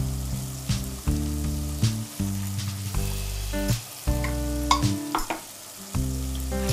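Ground masala paste frying and sizzling in hot oil in a steel kadhai, with a few sharp clicks of metal on metal. Background music with sustained notes that change about every second runs over it and is the louder sound.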